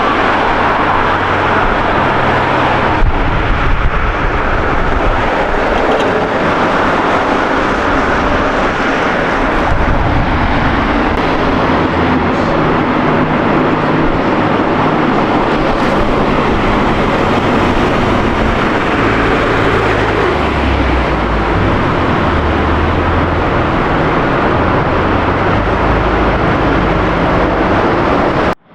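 Car engines running loudly along a city street, with low engine notes shifting in pitch as the cars move off and pass. The sound cuts out briefly near the end.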